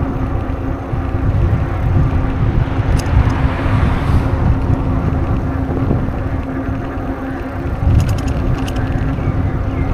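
Wind buffeting the microphone on a moving bicycle, a constant low rumble with a steady hum underneath. A few light clicks come about three seconds in and again near the end.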